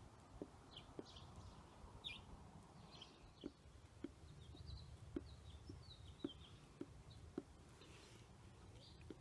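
Faint birds chirping in short high calls, over a quiet hum, with soft low ticks about every half second.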